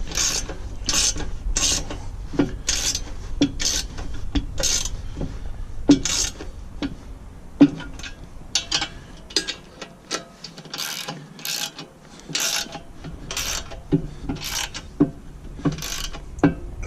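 Socket ratchet wrench worked back and forth on a bolt, a burst of ratchet clicks on each return stroke, repeating about twice a second.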